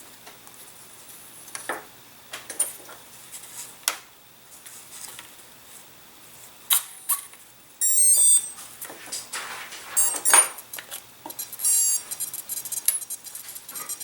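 Clicks and small handling knocks of wires and connectors being plugged together, then high electronic beep tones from the speed controller sounding through the Emax RS1306 brushless motor as it powers up: a short stepped run about eight seconds in, and a denser run of high tones near the end.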